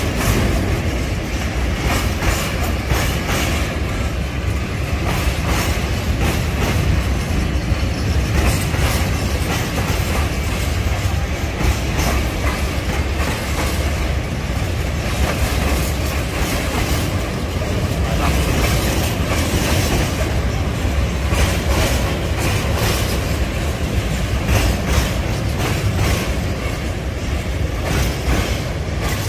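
A train running along the track: a steady low rumble with the wheels clattering over rail joints in an uneven run of clicks.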